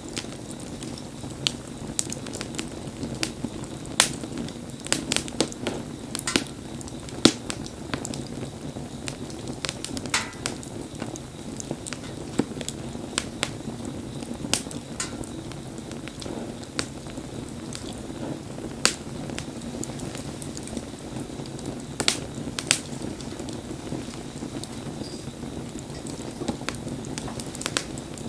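Wood fire burning with a steady low rush and sharp, irregular crackles and pops.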